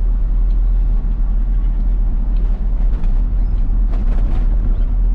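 Isuzu FRR90 diesel truck on the move: a steady, low rumble of engine and road noise, with a brief rattle about four seconds in.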